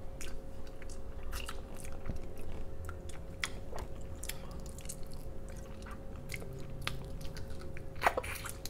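Close-miked chewing and biting of spicy garlic butter seafood, with scattered small clicks and crunches throughout and a slightly louder crunch near the end.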